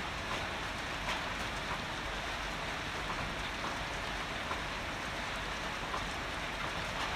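Heavy rain falling steadily, with scattered individual drops striking a surface.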